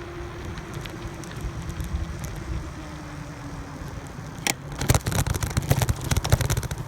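Bicycle riding: wind rumbling on the microphone and a faint steady hum that slowly falls in pitch. About four and a half seconds in there is a sharp knock, then a run of rattling clicks with louder rumble.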